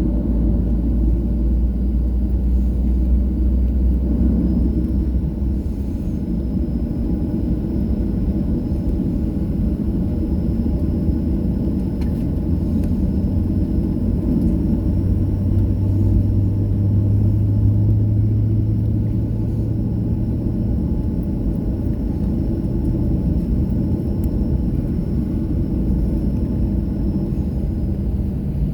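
Cabin noise inside a Boeing 737-700 with its CFM56 jet engines running: a steady low rumble, with a faint high whine held through most of it.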